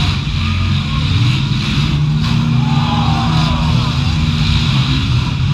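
Demolition derby cars' V8 engines running and revving together, a loud steady rumble, with engine pitch rising and falling about halfway through.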